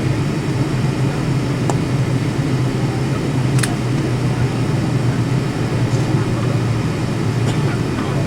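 Steady airliner cabin noise after landing: a constant low hum with a haze of air noise over it. A few faint clicks, the clearest about three and a half seconds in.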